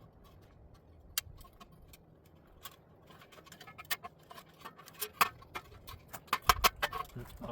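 Small metal clicks and clinks from copper wire and a hand tool being handled, sparse at first and coming thick and fast near the end, with a dull knock about six and a half seconds in.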